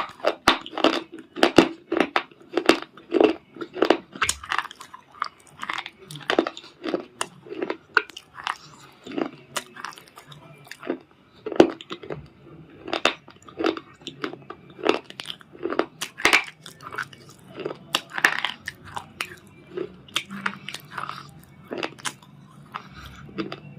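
Brittle red cube-shaped crunch stones being bitten and chewed: a run of sharp, dry crunches about twice a second, growing sparser near the end.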